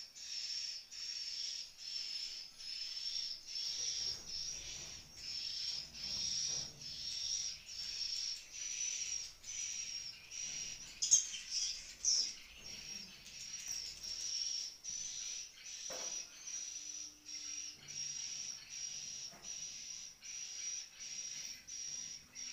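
Swiftlet calls: a high, rhythmic twittering chirp repeated evenly about one and a half times a second, with a brief louder burst about eleven seconds in and a few faint knocks.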